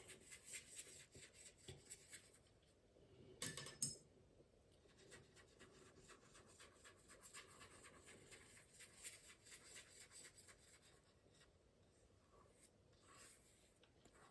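Faint, soft strokes of a wet paintbrush brushed over watercolour paper as the paper is wetted for wet-on-wet painting, with one louder stroke between three and four seconds in.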